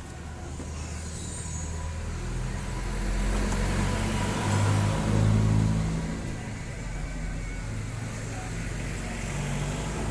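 A motor vehicle's engine passing by, growing louder to a peak about halfway and then fading, over a steady low engine hum.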